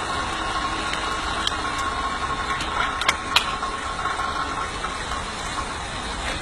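Miniature live-steam locomotive with steam up, giving a steady hiss, with a few sharp metallic clinks about three seconds in.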